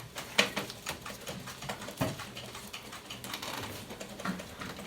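Irregular light clicks and taps, like small hard objects being handled or tapped, with the two clearest about half a second and two seconds in.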